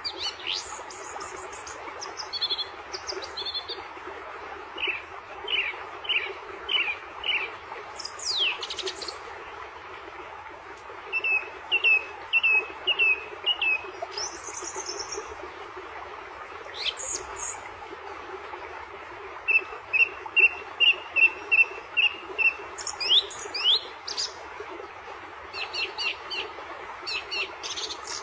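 Songbirds chirping and calling in many short phrases, including runs of quick repeated notes and falling whistles, over a steady background hiss.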